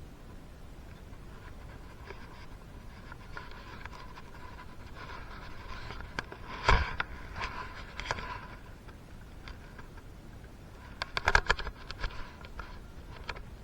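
Workbench handling noises from engine work: scraping and small clicks, a sharp knock a little past halfway, and a quick run of clicks and knocks near the end.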